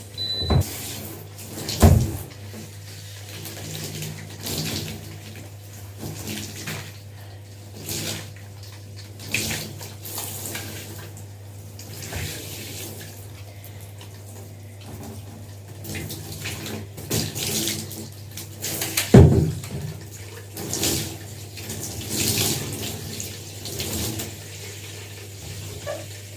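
Running water with irregular splashing as long hair is rinsed of shampoo, over a steady low hum.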